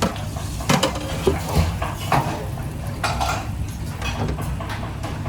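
Pans and metal utensils clattering in a kitchen: a few irregular clanks and scrapes over a steady low background hum.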